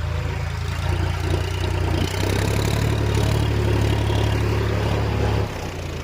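Tractor engine running steadily at idle with a low throb, dropping in level about five and a half seconds in.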